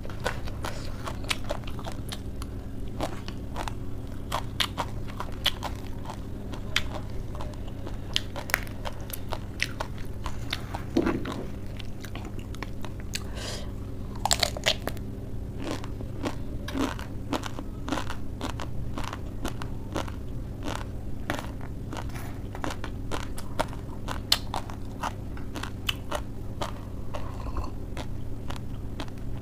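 Close-miked crunchy chewing and biting of dry, crushed Wai Wai instant noodles, with loud crisp bites of a raw lettuce leaf about halfway through, over a steady low hum.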